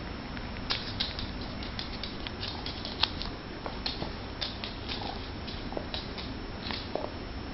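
Kitten and dog play-wrestling: irregular scuffling with light taps and thumps, a few a second.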